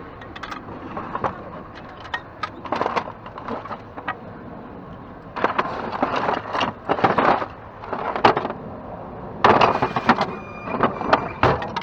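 Someone rummaging through a pile of discarded household items: irregular knocks, clatter and rustling as things are handled and moved, busiest in the second half.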